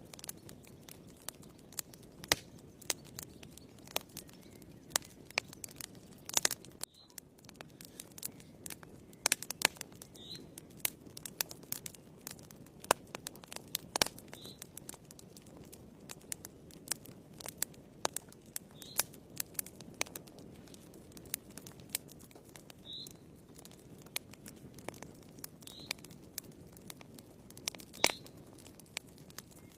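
Wood fire in a fireplace crackling: irregular sharp pops and snaps over a low steady rush of the flames. A few short, high squeaks are scattered through it.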